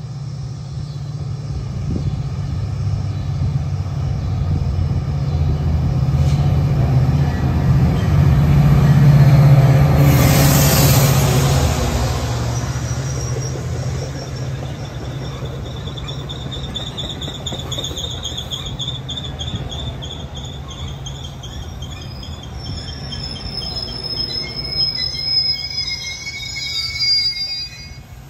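Metra commuter train passing: the EMD F40PH diesel locomotive's engine drone builds to its loudest about ten seconds in, with a burst of hiss, then fades. The bilevel coaches roll by with wheels squealing in several high, wavering tones through the second half.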